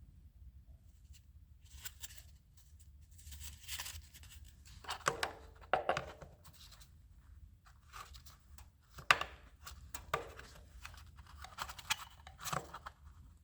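Scattered clicks, scrapes and rustling as the plastic air cleaner parts of a generator are handled and fitted, with one sharper click about nine seconds in.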